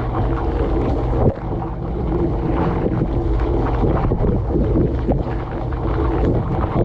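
Dishwasher running mid-cycle, heard from inside the tub: the wash pump's steady hum under water spraying and splashing over the dishes and racks, with irregular knocks of water striking. A brief thud about a second in.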